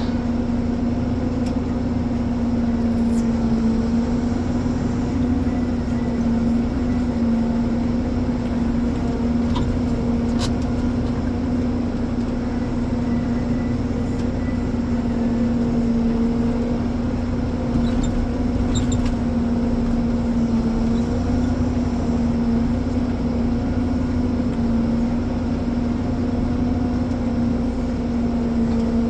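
Ponsse Elephant forwarder's diesel engine running at steady revs, with a few faint clicks and knocks.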